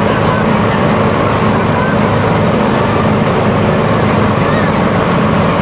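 Fire truck engine running steadily, as when driving its pump, under a continuous loud hiss. Faint shouts from children are scattered through it.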